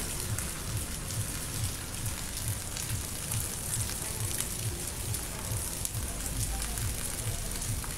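Steady rain falling on rooftops at night, with many small drop ticks, under the steady low bass beat of music playing somewhere nearby.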